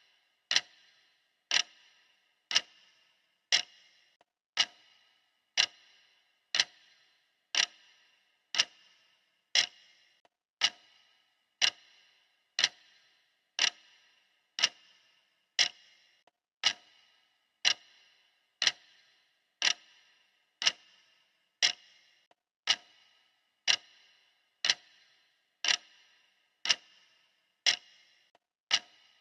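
Classic clock ticking, one sharp tick about every second, steady and even.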